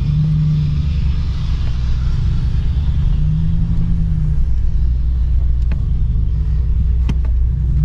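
Steady, loud rumble with an even hiss over it from sandblasting nearby, a low hum holding underneath without letting up.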